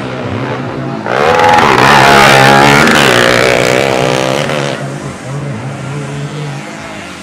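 Racing underbone motorcycle engines running hard on a dirt grasstrack. One bike comes close and gets loud about a second in, then fades away over the next few seconds while others keep running.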